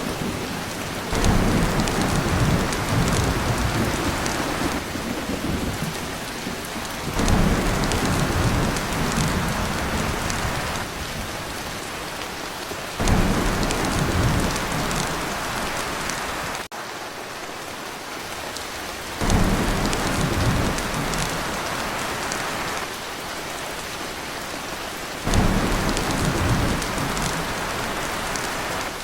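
Heavy rain falling steadily on a tin roof, with deep rolls of thunder that swell up suddenly about every six seconds and die away, five in all. The sound drops out for a moment just past the middle.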